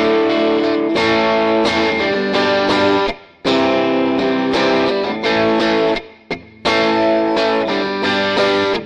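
Electric guitar playing sustained chords, cutting off briefly twice, a little past three seconds and around six seconds in.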